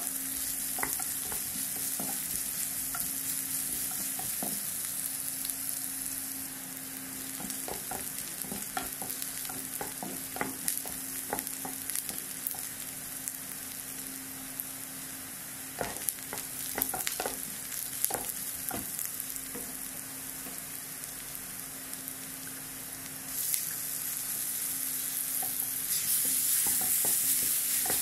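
Chopped onions and chillies sizzling in oil in a non-stick kadai, with scattered scrapes and taps of a spatula stirring them. The sizzle grows louder about two-thirds of the way through and again near the end.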